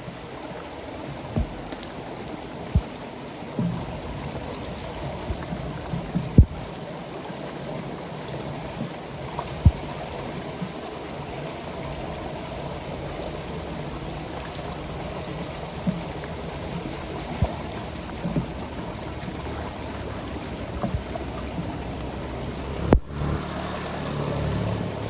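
Floodwater running steadily into a street storm drain, with a few sharp knocks scattered through, the loudest about six seconds in and near the end.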